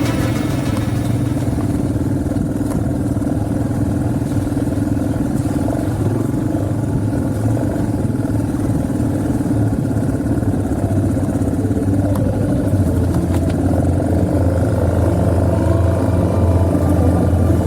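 Motocross bike engine running steadily, getting a little louder near the end.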